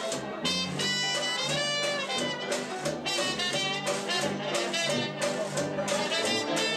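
Swing-style jazz band playing, with a horn carrying the melody over a walking bass line.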